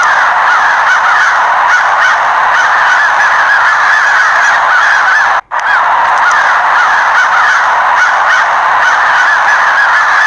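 A large flock of crows, hundreds of birds, cawing all at once in a loud, dense chorus of overlapping calls. The flock is stirred up and startled as it circles. The sound drops out for an instant about halfway through, then carries on.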